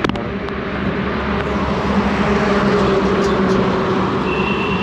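A vehicle engine idling steadily, with a sharp click at the start.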